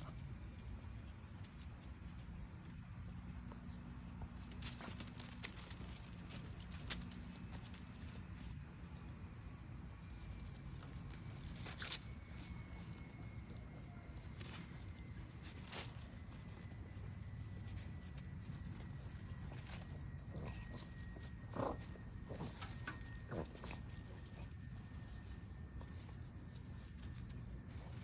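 Steady high-pitched insect chorus, with a few faint scattered clicks.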